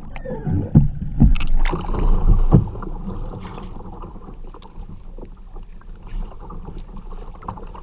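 Water splashing around a kayak and paddle during roll practice: several loud splashes in the first few seconds, then softer water movement.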